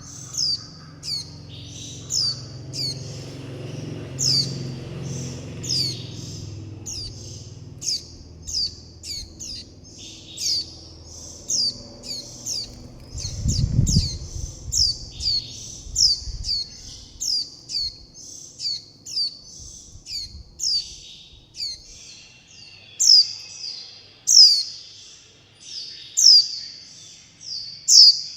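Juvenile white-eye giving its repeated begging and contact calls: short, high, downward-sliding chirps, about two a second without pause. A low rumble sits under the first half, with a single low thump about halfway through.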